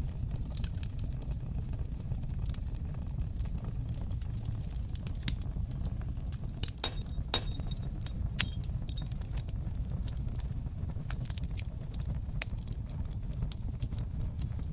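Fire in a fireplace crackling: a steady low rush of flames under scattered sharp pops and snaps, with a cluster of pops a little past halfway and the loudest single pop about eight seconds in.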